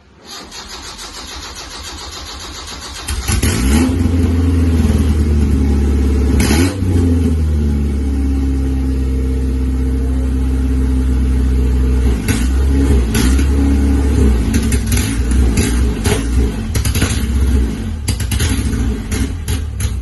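A freshly rebuilt Isuzu 4ZE1 four-cylinder petrol engine cranks on the starter for about three seconds, then catches. It runs loud and raw with no exhaust fitted and is revved several times before it is shut off at the very end.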